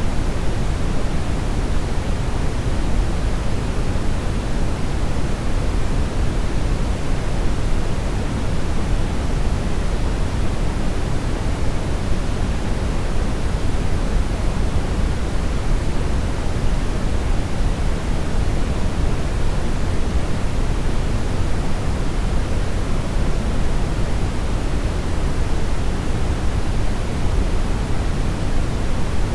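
Steady synthetic brown noise: an even, unchanging hiss weighted toward the deep end, with no events or changes.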